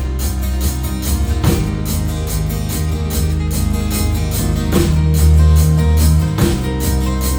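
Live rock band playing an instrumental passage: electric guitars and bass holding chords over a steady drum-kit beat with crashing cymbals.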